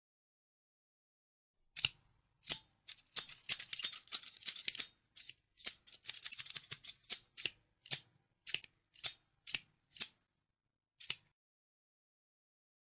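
Scissors snipping: after a short silence, quick runs of rapid snips, then single snips about half a second apart that stop about eleven seconds in.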